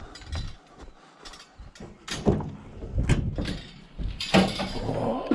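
A series of mechanical clunks and rattles, growing louder and busier from about two seconds in.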